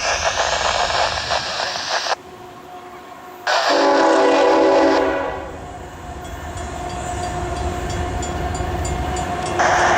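Union Pacific double-stack freight train passing with rumbling wheel and rail noise, and a locomotive air horn sounding one short chord blast of about a second and a half, a few seconds in.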